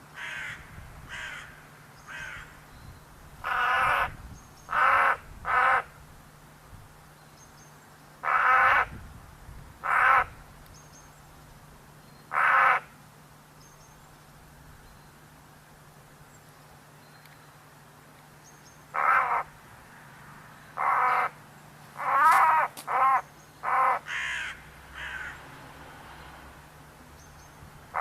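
Crow cawing: short harsh calls, singly and in quick runs of two or three, with a long pause in the middle.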